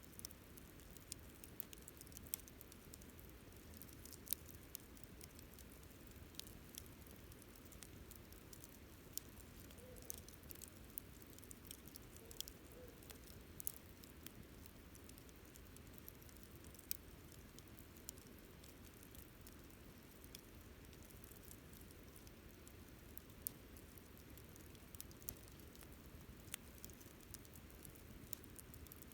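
Wood campfire crackling softly: sparse, irregular sharp pops and ticks over a faint low hiss.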